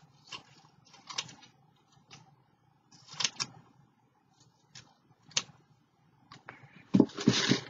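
Scissors snipping paper, a handful of separate crisp snips at irregular intervals, then louder rustling and knocking of paper near the end.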